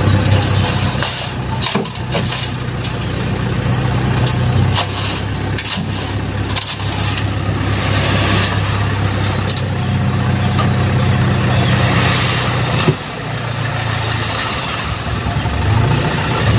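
Mitsubishi Canter HDX dump truck's diesel engine running steadily while its full load of sand slides and spills off the tipped bed with a crunching, rushing noise. The engine note drops abruptly about 13 seconds in.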